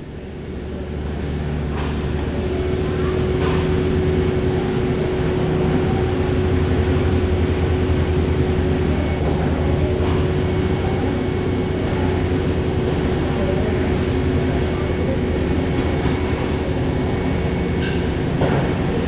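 Aircraft engines droning steadily, heard through cafe window glass: a low, even drone with a steady hum in it that grows louder over the first few seconds and then holds.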